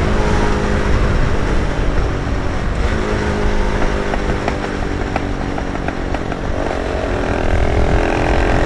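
125cc motorcycle engine running at a steady cruising speed under way, with heavy wind rumble on the microphone.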